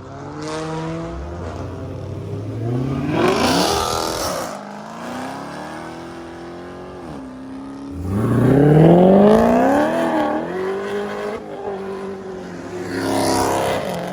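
Car engines revving and accelerating hard. The pitch climbs steeply three times: about a second in, again from about eight seconds (the loudest), and near the end.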